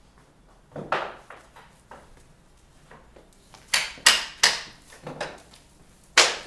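A few sharp knocks and clatters: one about a second in, a quick cluster of four around four to five seconds, and the loudest just before the end.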